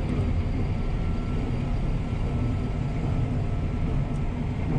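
John Deere T670i combine harvester running steadily while cutting a crop of winter oats: a constant low engine and machinery drone with a faint steady whine.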